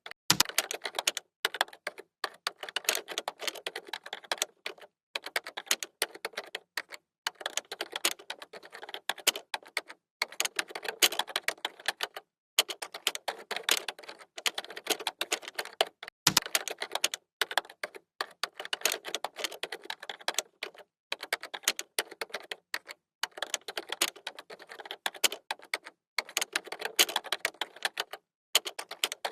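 Computer keyboard being typed on fast, many keystrokes a second, with brief pauses every few seconds.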